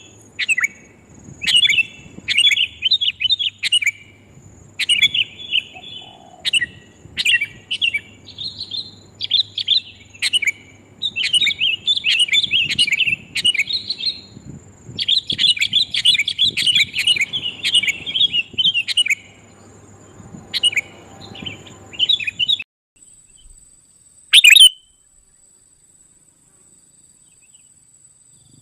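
Sooty-headed bulbuls (kutilang) calling in loud, rapid bursts of chirping notes, one burst after another for most of the stretch. Near the end the calling cuts off abruptly, leaving one loud call before it goes quiet.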